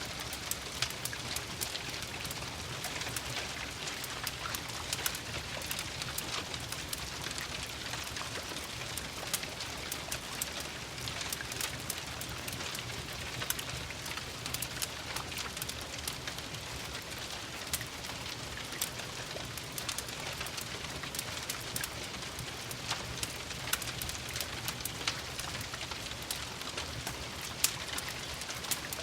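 Steady rain pattering on a surface, mixed with the sharp irregular pops and crackles of a wood fire in a fireplace.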